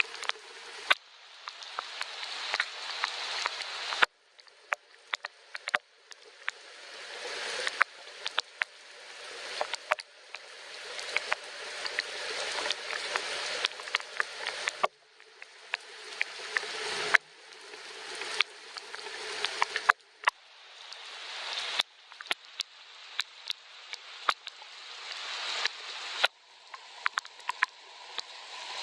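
Rain falling, a steady hiss with many sharp drop clicks. The hiss keeps swelling over a few seconds and then cutting off abruptly.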